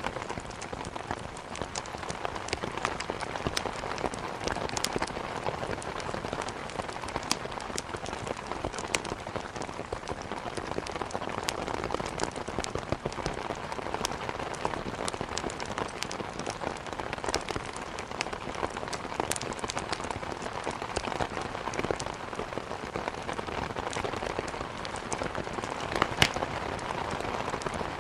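Steady rain falling, with a log fire crackling over it in frequent sharp pops and clicks; one louder pop near the end.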